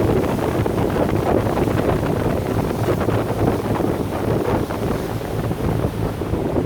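Wind buffeting the microphone aboard a moving yacht, over a steady low hum from the boat.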